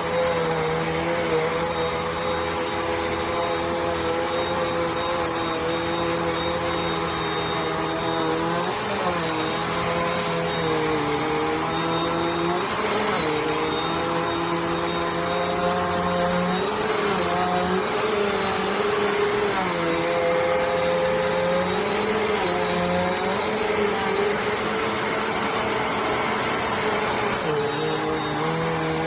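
Bissell CleanView Compact 3508 upright vacuum running continuously, its motor whine dipping in pitch and recovering several times.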